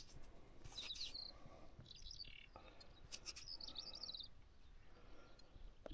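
Faint birdsong: several short, high chirping phrases, with a couple of brief clicks about three seconds in.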